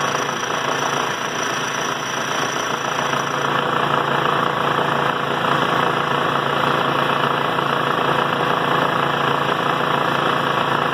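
Washing-machine motor spinning a cutting disc, steady grinding noise as it cuts through a steel chain. A faint high whine drops out about three seconds in.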